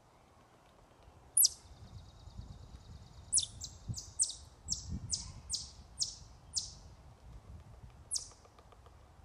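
A bird calling in short, sharp down-slurred whistles: a single note, then a quick run of about eight at roughly three a second, and one more near the end.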